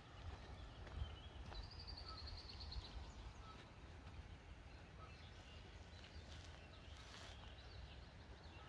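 Faint outdoor ambience of songbirds chirping over a low rumble, with one rapid high trill of about a second near two seconds in.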